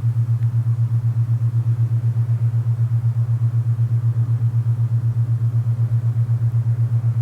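Alpha binaural beat: a steady low tone that pulses evenly about eight times a second, where two close pitches beat against each other, over a faint hiss of wind.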